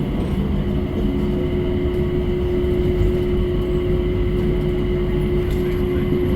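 Airport people-mover train running: a steady low rumble with a held tone over it.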